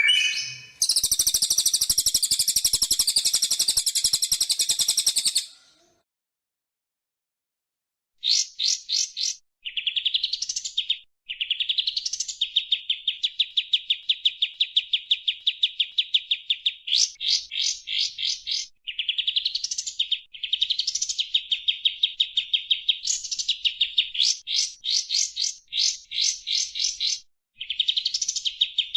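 Songbird song from a sekoci and white-rumped shama tutoring recording. A loud, dense buzzing trill runs for about five seconds and breaks off. After about three seconds of silence, long runs of rapid, repeated high notes follow, with quick upward-sweeping phrases and short breaks between them.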